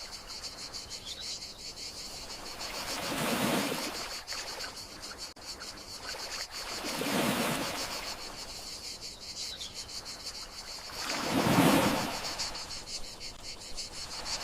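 Gentle sea waves washing in three slow swells, about every four seconds, over a steady, even chorus of crickets.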